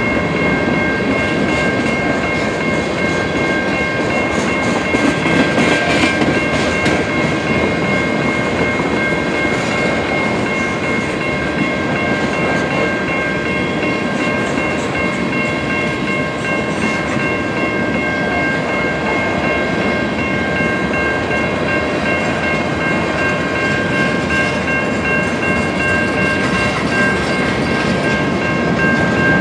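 Freight cars of a mixed manifest train, mostly tank cars and covered hoppers, rolling steadily past with a continuous rumble of wheels on rail. Several steady high-pitched tones ring over the rumble the whole time.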